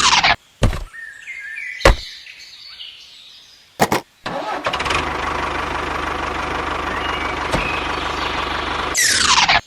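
A few sharp clicks, then a small engine or motor starting and running steadily with a low hum for the second half. A falling whoosh comes near the end.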